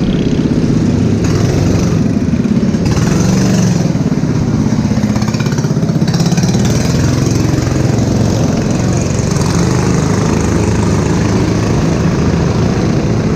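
Go-kart engine running under power, its pitch rising and falling a little with the throttle.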